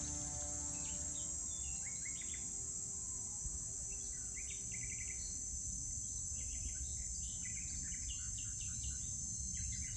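Steady high-pitched insect chorus with songbirds chirping on and off, over a low steady background rumble.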